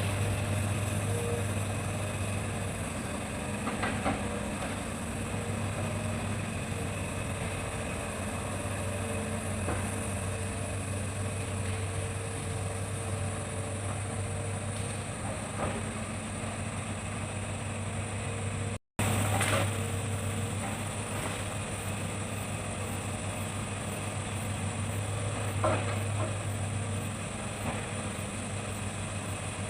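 Hitachi excavator's diesel engine running steadily, with a few short knocks scattered through. The sound cuts out for an instant about two-thirds of the way through.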